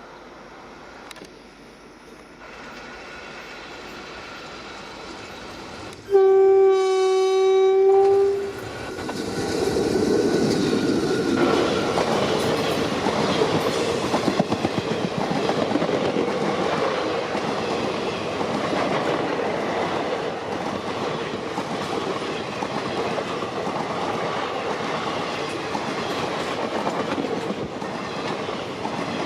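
Indian Railways electric locomotive sounding its horn in one steady blast of about two seconds, then an express train running past with its wheels clattering rhythmically over the rail joints.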